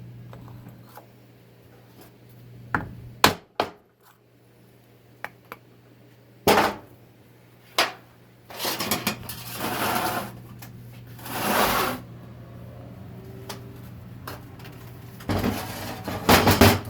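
Metal transmission parts and hand tools knocking, clinking and scraping on a workbench during a teardown: a few sharp knocks, then longer stretches of rattling and scraping, over a steady low hum.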